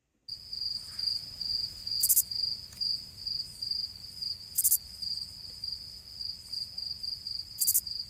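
Insect trill: a steady, fast-pulsing high chirring that starts abruptly and holds without a break, with three brief higher hisses a few seconds apart.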